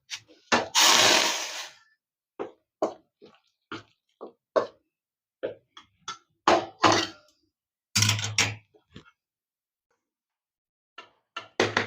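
Hot water poured briefly into a bowl of ragi flour, then a spoon scraping and knocking against the bowl in short, separate strokes as the water is stirred into the flour.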